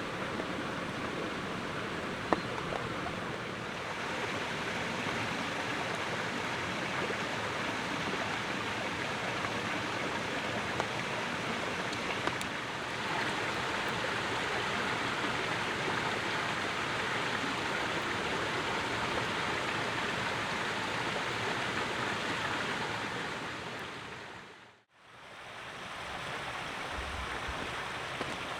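Steady rushing outdoor noise, like flowing water or wind, with a few faint clicks. About 25 s in it fades to silence and fades back up.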